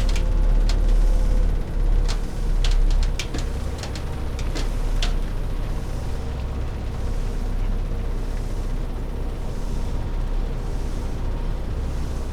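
Kenworth T660 semi truck driving, heard from inside the cab: a steady low engine and road drone, with a run of sharp clicks and rattles during the first five seconds.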